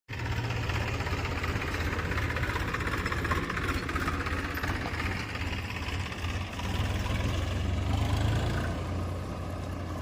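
A vehicle engine running steadily, with a deep, even hum.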